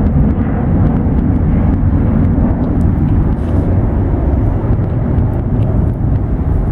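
Jet airliner's engines, a steady loud rumble with no clear pitch.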